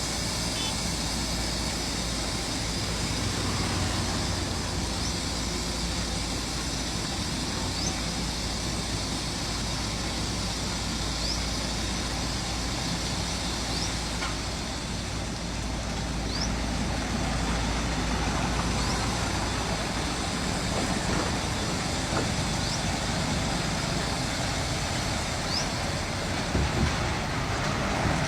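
Heavy-machinery diesel engine running steadily, with faint short high chirps every few seconds.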